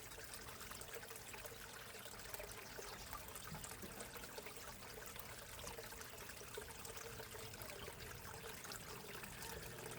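Water trickling steadily into a backyard koi pond.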